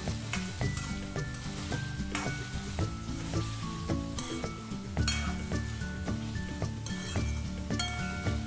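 Boiled potato cubes sizzling in hot oil in a metal kadai while a metal ladle stirs and scrapes them, with repeated short scrapes, over steady background music.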